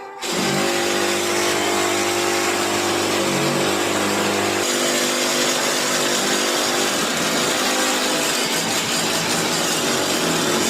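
Electric power tool running steadily under load, its sound shifting a little under five seconds in.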